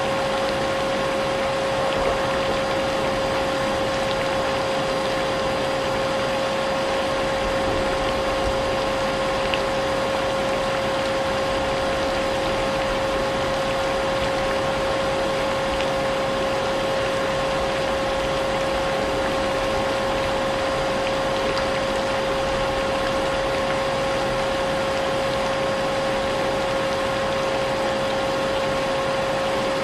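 Vacuum cleaner running continuously with a constant, unchanging motor hum, blended with the steady hiss of rain.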